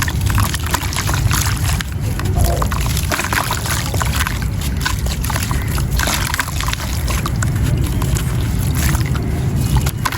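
Wet gritty sand crumbling into water, with a steady run of small crackles and sloshing.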